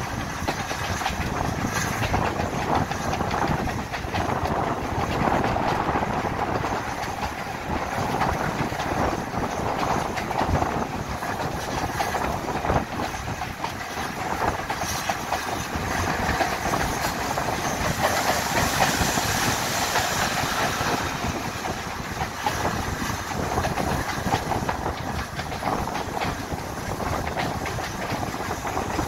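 Heritage railway passenger coach running at speed: steady rumble and rushing air with wheels clicking over the rails. The rushing grows louder and brighter for a couple of seconds about two-thirds through.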